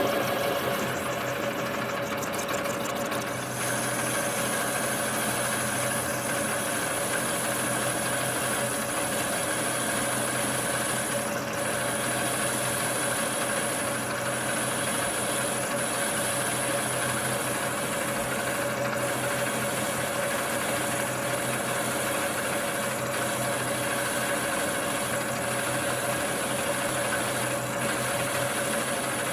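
Metal lathe running steadily while turning a steel wheel blank: a continuous machine hum with a high whine that sets in about three and a half seconds in.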